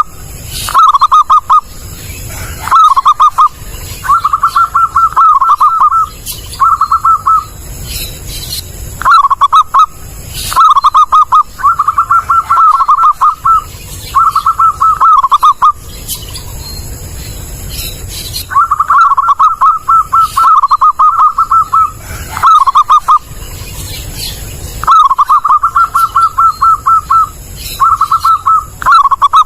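Zebra dove (perkutut) singing: loud, clear phrases of quick rolling coos, repeated over and over with short gaps and one longer pause a little past the middle.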